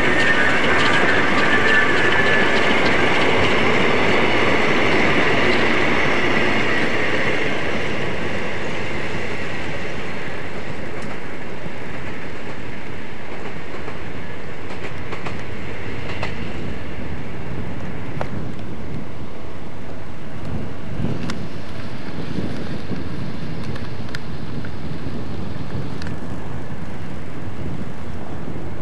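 Steam-hauled passenger train passing: the carriage wheels clatter and rumble on the rails, loud at first and easing over the first several seconds to a steadier, lower rumble as the train draws away.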